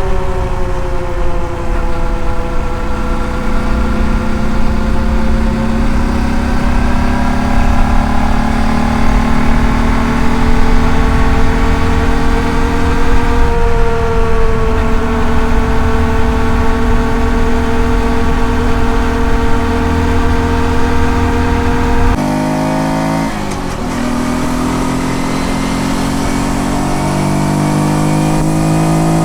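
Honda Dax 125's single-cylinder four-stroke engine running under way, its note drifting slowly, over heavy wind rumble on the microphone. About 22 seconds in the wind rumble drops, and the engine note falls sharply, then climbs again.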